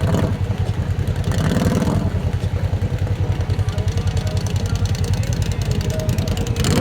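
Off-road vehicle engine running steadily at low revs, with an even, rapid low pulsing.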